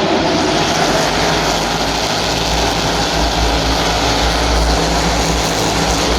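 NASCAR Cup Series stock cars' V8 engines running at speed on track, a loud, steady din of a pack of cars with a deep rumble underneath.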